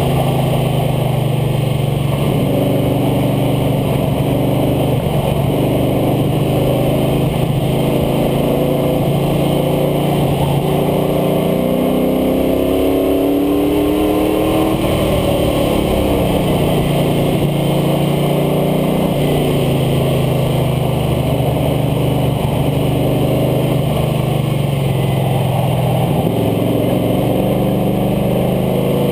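International Harvester Scout II's engine pulling hard at track speed, heard from the front air dam under a steady rush of wind and road noise. Its pitch shifts several times, climbing noticeably about halfway through as it accelerates.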